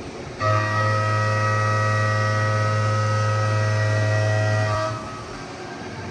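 Haas VF-2SS CNC mill cutting S355 steel: a steady, loud pitched ring from the spinning cutter engaging the workpiece. It starts abruptly about half a second in and stops just before five seconds, leaving the quieter machine running. The pitch matches a 12 mm six-flute carbide end mill contour milling at about 6,400 rpm.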